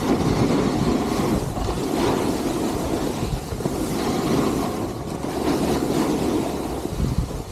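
Wind rushing over the microphone during a downhill ski run, with a noisy rush that swells and eases every second or two as the skis run over the snow.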